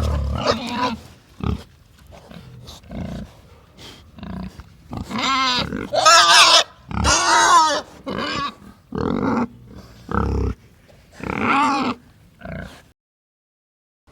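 Pigs calling: a run of short grunts and several longer, pitched squeals whose pitch wavers, cutting off to silence about a second before the end.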